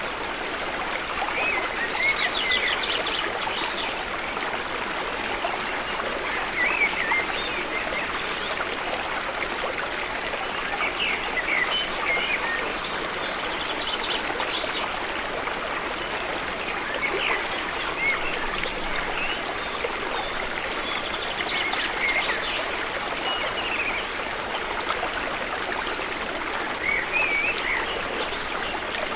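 River water flowing steadily, with birds chirping briefly every few seconds.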